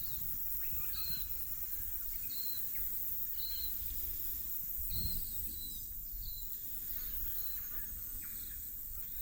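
Silvereyes giving short, thin, high call notes about once a second, over a steady high insect-like hiss and a low rumble.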